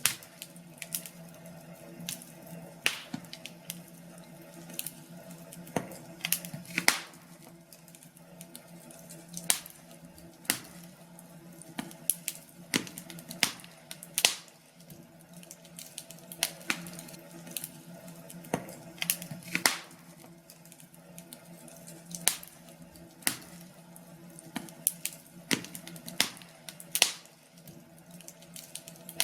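Wood fire crackling in a fireplace: irregular sharp pops and snaps, a few louder than the rest, over a faint steady hum.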